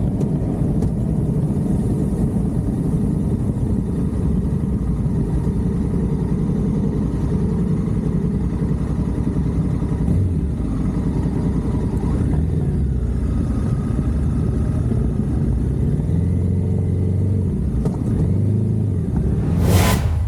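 Motorcycle engine running steadily as the bike rides along, a low continuous drone. A short loud burst of noise near the end.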